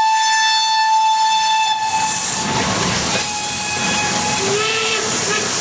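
Steam locomotive whistle: a long blast of about two seconds, then after a pause a second, shorter blast, and a brief lower-pitched whistle near the end, over a steady hiss of steam.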